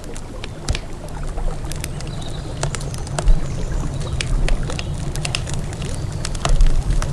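Wood campfire crackling, with frequent sharp pops and snaps and one louder pop about three seconds in, over the steady low rush of a river.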